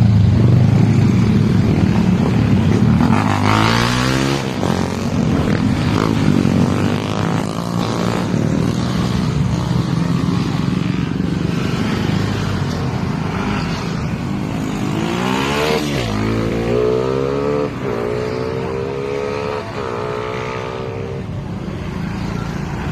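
Motorcycle engine running on the move, revving up and down several times as it changes speed, over a steady low rumble.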